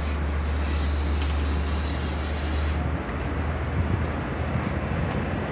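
Long Island Rail Road diesel push-pull commuter train with C3 bilevel coaches moving past close by. A steady low hum and hiss cut off about three seconds in, leaving a rougher rumble with wind on the microphone.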